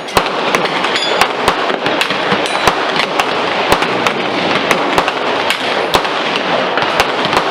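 Gunshots at a shooting range, many sharp reports coming about three a second at uneven spacing, over a steady hiss.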